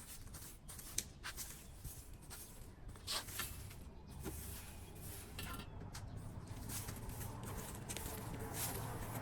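Irregular knocks and scrapes of debris being pulled from a blocked street drain, over a low rumble of water that swells into a steady rush near the end.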